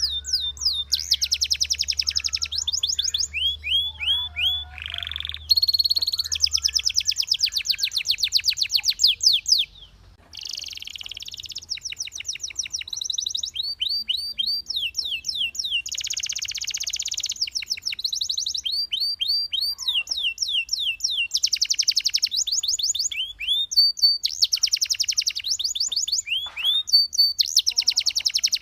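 Belgian canary singing a continuous song of rapid trills: each phrase is a fast run of identical sweeping notes, switching to a new phrase every second or two, with a brief break about ten seconds in.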